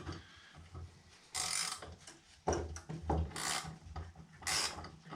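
Ratchet wrench tightening bolts and nuts on a steel-angle frame during assembly: short rasping ratchet strokes, about one a second, beginning a little over a second in.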